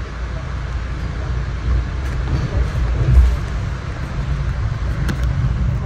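Inside a moving Metro-North passenger coach: steady low rumble of the wheels running on the track, with one louder bump about three seconds in.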